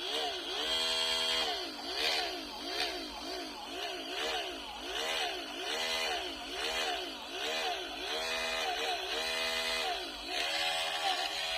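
Small 775 DC motor of a homemade PVC-pipe drill whining. Its pitch rises and falls over and over, about every half second or so, as it speeds up and slows down.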